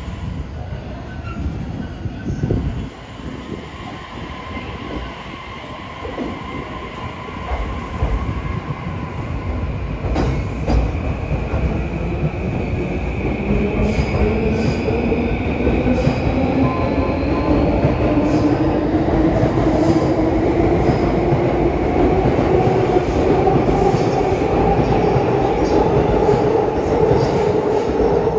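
Electric train pulling out, its traction motors giving a whine that rises steadily in pitch and grows louder from about halfway through, over the rumble and clatter of the wheels.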